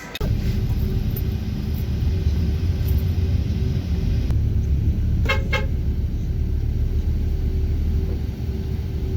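Car on the move, a steady low road-and-engine rumble, with a brief double toot of a vehicle horn about five seconds in.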